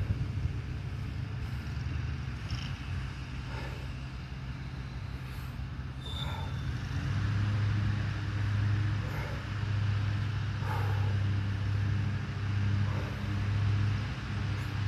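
Lawn mower engine running steadily, getting louder about halfway through and then swelling and easing.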